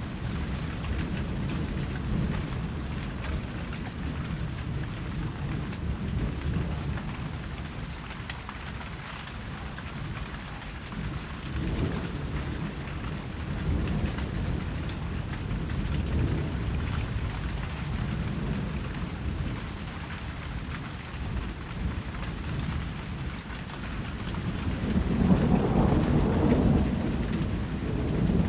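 Steady heavy rain with low rolls of thunder rumbling under it, the loudest and longest roll near the end.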